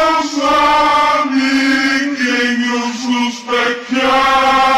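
Chant-like singing in long held vocal notes, changing pitch about every second, with brief breaks between them.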